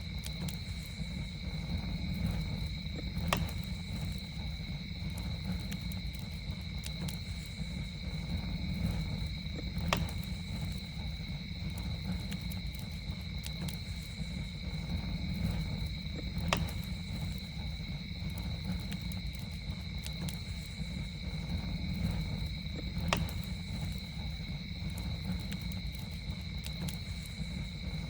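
Campfire burning with a low steady rumble, small crackles and a sharp pop about every six to seven seconds. Behind it runs a steady, high-pitched insect drone on two unchanging pitches, like crickets at night.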